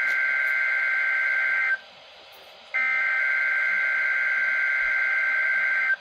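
Weather radio receiver's alert alarm going off during the weekly test: a steady high electronic beep held about three seconds, off for about a second, then on again for another three seconds.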